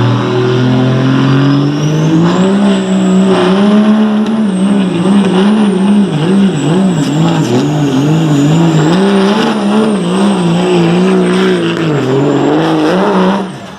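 Turbocharged diesel pickup truck engine at full throttle pulling a weight-transfer sled. The revs climb over the first two seconds, then hold high while rising and falling quickly, with a high turbo whistle above. The engine cuts off abruptly near the end as the pull finishes.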